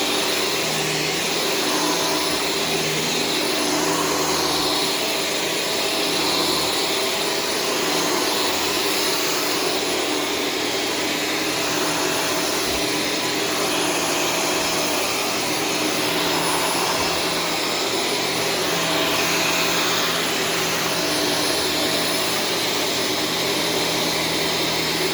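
Shark Stratos vacuum cleaner running steadily on a higher power setting while being pushed across carpet, its motor whine swelling and dipping slowly with each stroke.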